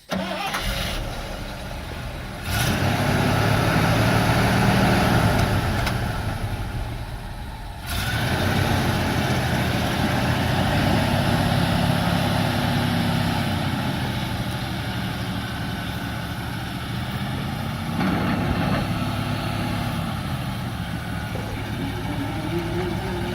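1976 International Harvester grain truck's engine running, revved up and eased back down several times between stretches of idle.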